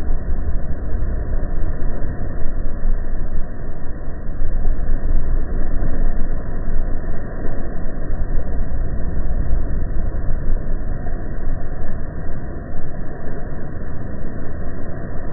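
Steady, muffled rumble of a quad bike on the move: engine and wind noise blended together, with no clear engine note.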